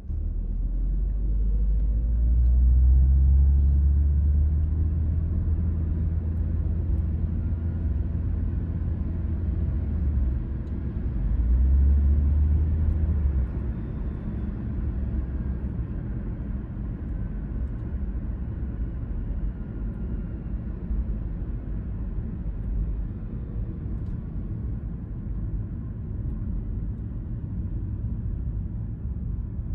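Car being driven: a low engine and road rumble, heavy for the first thirteen seconds with a short dip about ten seconds in, then easing to a steady lower drone of tyres and road.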